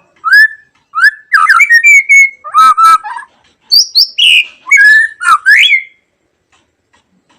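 White-rumped shama (murai batu) singing: loud rising whistled notes, then quicker, varied phrases, stopping about six seconds in.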